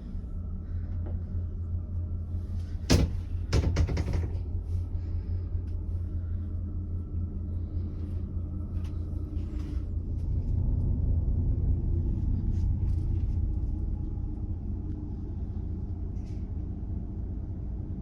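Steady low rumble of a cruise ship's machinery heard inside a small cabin, swelling a little about ten seconds in. A sharp knock and a short run of clicks come about three seconds in.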